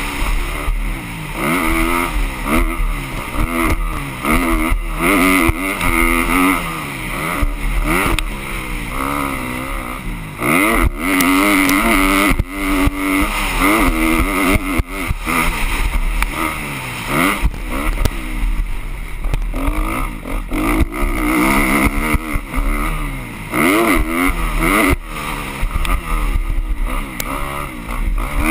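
Motocross bikes' engines revving up and down repeatedly, with several bikes heard at once as they race around the track.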